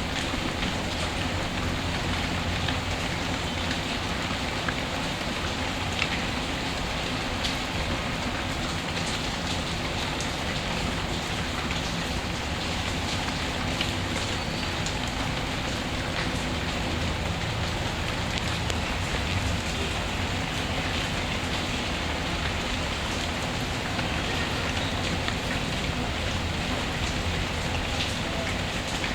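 Steady rain ambience with a fireplace crackling, with occasional small pops and ticks.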